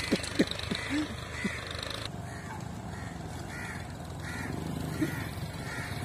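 Birds cawing: a run of short, harsh calls repeated about every half second or so, most regular from about two seconds in.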